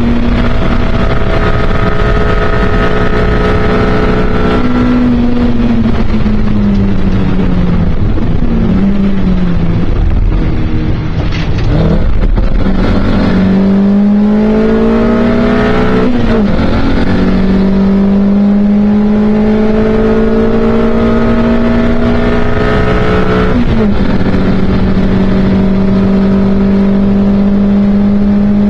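Mk1 Toyota MR2 race car's engine heard from inside the cockpit, running hard at high revs. Its pitch falls as the car slows for a corner, then climbs through the gears, with upshifts about halfway through and again near the end.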